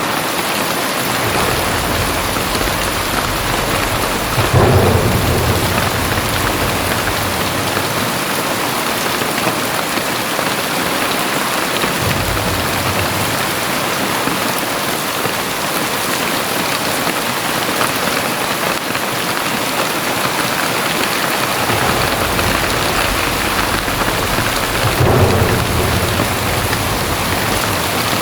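Very heavy rain falling steadily. Deep low rumbles swell up twice, loudest about four and a half seconds in and again near the end.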